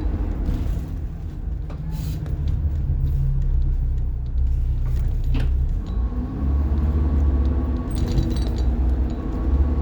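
The rear-mounted diesel engine of a 1990 Blue Bird All American school bus is running under way, heard from inside the bus as a steady low rumble. The engine note changes pitch about halfway through, and there is a brief click near the middle.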